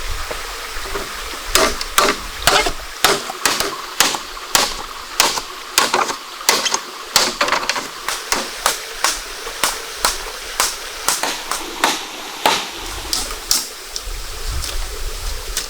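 Running stream water under a quick series of sharp knocking strikes, about two a second, that starts about a second and a half in and stops near the end.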